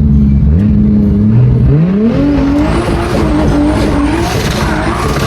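Drift car with a 2JZ straight-six engine driven hard: the revs climb steeply about two seconds in, then rise and fall, while the tyres squeal through the slide.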